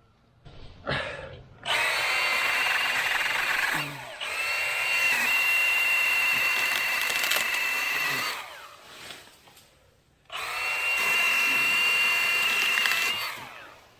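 Milwaukee M18 Hatchet battery pruning saw running at full speed in three bursts of a steady high whine, cutting through a limb, with short pauses between.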